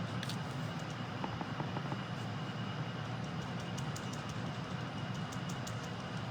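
Sponge dauber pouncing ink onto cardstock: faint, irregular light taps over a steady low hum.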